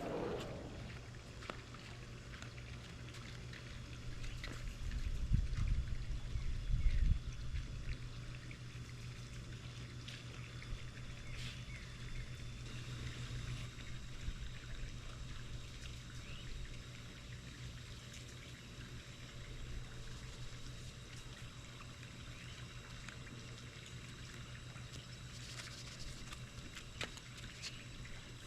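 Pool water trickling and pouring steadily over a constant low hum, with a few low thumps about five to seven seconds in.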